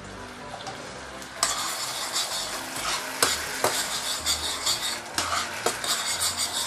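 Gravy of chicken oil, blended ginger and garlic and soy sauce sizzling in a hot pan as it is stirred, with a utensil knocking and scraping the pan. The sizzling starts loudly about one and a half seconds in.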